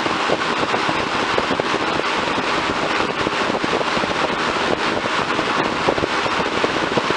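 1975 first-generation Lakewood P223 box fan running on medium speed in a cold start: a steady rush of air with irregular clicking throughout.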